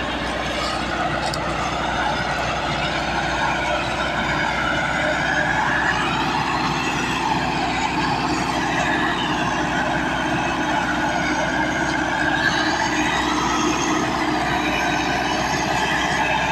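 Tractor engine running steadily under load, its pitch slowly rising and falling over several seconds.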